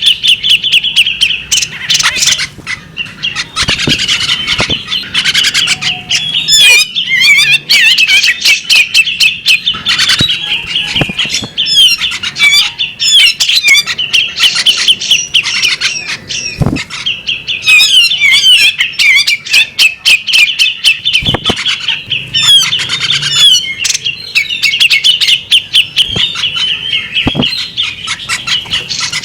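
Female magpie-robin calling in a fast, unbroken stream of chattering chirps and clicks, with a few dull thumps among them.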